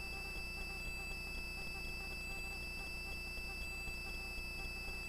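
Faint steady hum with a thin, constant high-pitched tone on the helicopter's onboard intercom audio.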